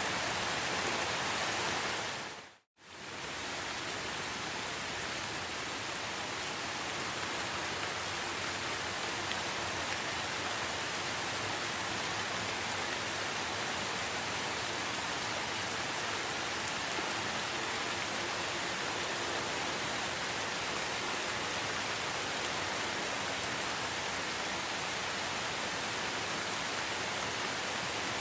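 Steady, even rain ambience that fades to silence and back in under a second, about three seconds in.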